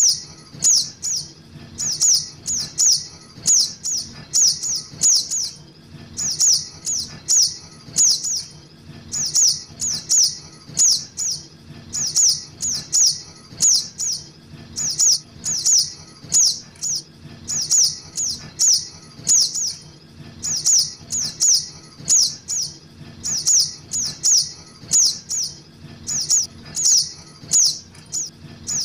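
Juvenile sogok ontong (little spiderhunter) begging calls played as a bird lure: short, high, sharp calls that drop in pitch, repeated in quick runs of three to five with brief pauses between runs.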